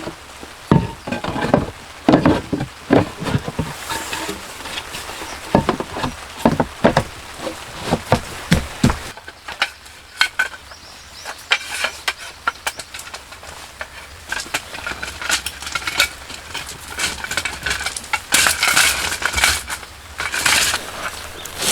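Irregular clinks, knocks and rattles of cookware and utensils being handled. The knocks are heavier for the first nine seconds or so, then lighter and sharper.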